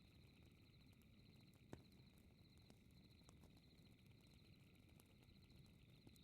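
Faint fireplace crackling: a low rumble with scattered small pops and one sharper snap just under two seconds in, under a steady high, rapid chirping of night insects.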